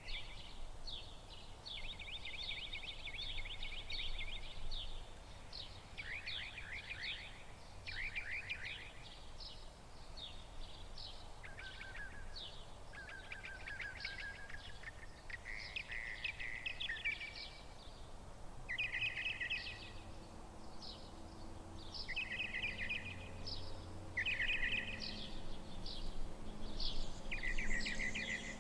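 Songbirds singing, short chirping phrases and trills repeating every second or two.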